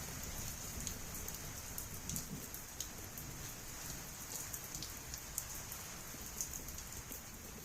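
Heavy rain falling steadily, with many sharp drips and drop impacts ticking through the hiss.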